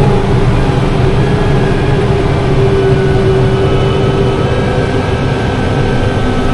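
Heavy vehicle engine running steadily: a loud low drone with a steady whine on top.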